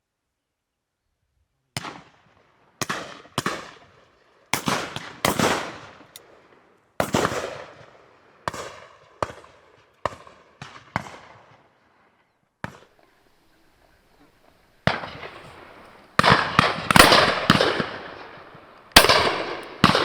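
Shotguns fired by a line of guns at driven game birds: a dozen or so separate shots, some closer and louder than others, each trailing off. The firing thickens near the end into a rapid run of overlapping shots.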